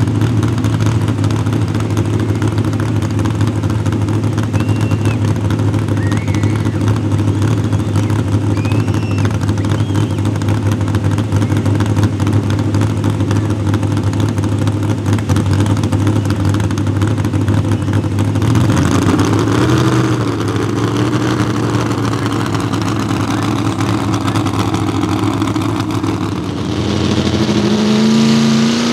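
Mini rod pulling tractor engines running loud and steady, then easing off to a lower, wavering note. Near the end an engine revs up with a quickly rising pitch.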